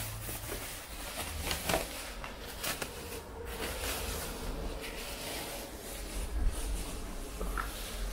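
Unpacking noises: irregular rustling, scraping and light knocks as a new air compressor is handled and freed from its packaging and wooden base, with a faint steady buzz for a few seconds in the middle.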